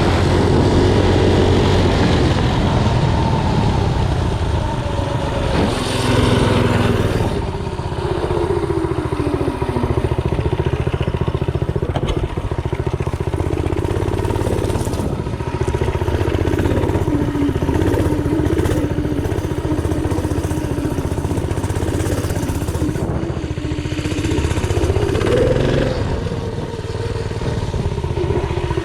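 Mini bike's small engine running under way, its pitch rising and falling as the throttle is opened and eased off.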